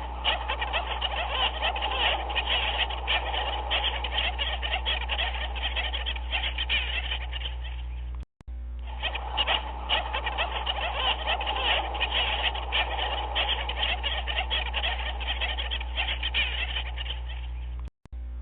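A dense chorus of many short animal calls overlapping. It is a looped recording that cuts out for a moment about eight seconds in and again near the end.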